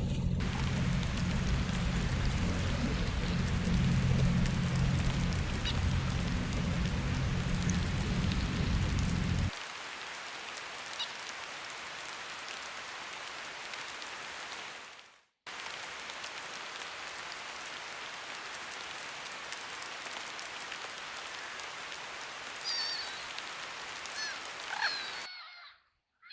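Steady rain pattering on river water, an even hiss of drops, with a low rumble underneath that stops abruptly about ten seconds in. Near the end a few short bird calls sound over the rain.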